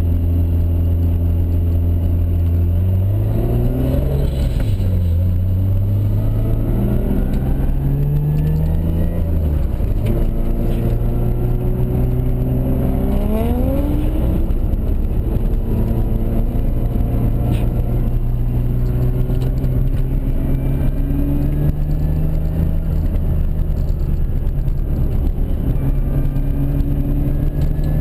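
Toyota Mark II's turbocharged 1JZ straight-six, heard from inside the cabin while driven hard on track. Its note rises and falls with the throttle, with quick climbs in revs about four seconds in and again about thirteen seconds in.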